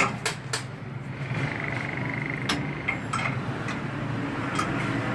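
Steady low hum of an alloy wheel straightening machine, with a few sharp metallic clicks and a faint steady whine from about one to two seconds in.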